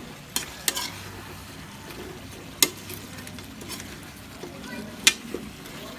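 Chicken frying in a pan with a steady sizzle, while a utensil stirring it knocks sharply against the pan four times.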